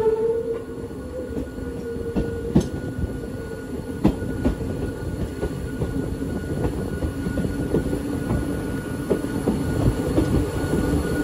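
The Hakone Tozan Railway's oldest car in service running along the mountain line: a steady rumble from wheels and rails, with scattered sharp clicks and a thin high tone. A stronger whine fades away in the first second.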